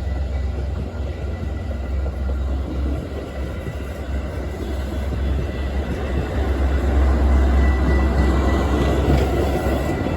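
Metra commuter train passing, a steady low rumble that grows a little louder in the second half, with a faint thin tone near the end.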